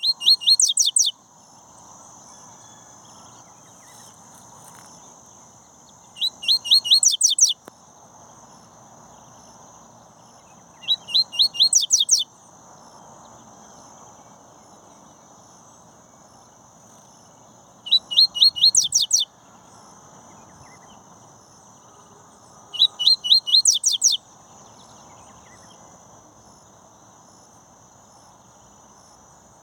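Sporophila seedeater (papa-capim or coleiro) singing. It gives five short phrases about five to six seconds apart, each a quick run of six or seven high notes that sweep downward and lasts a little over a second. A faint steady high tone runs underneath.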